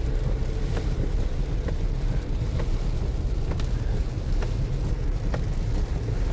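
Road noise inside a moving car: a steady low rumble of tyres and engine on a wet highway, with a faint tick about once a second.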